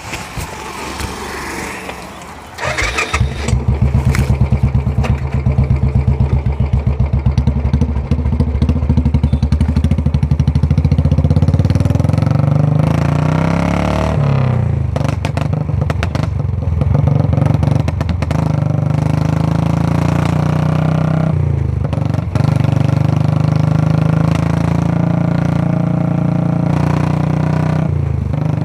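2014 Royal Enfield Classic 350's single-cylinder engine, breathing through a short-bottle Punjab silencer, starting about three seconds in and then idling with an even exhaust beat.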